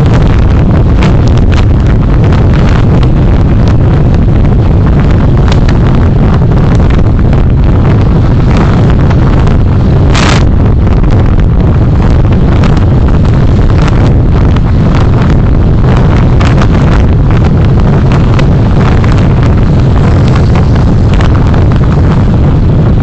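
Steady loud road and wind noise of a moving car, with frequent small knocks and rattles and one sharper click about ten seconds in.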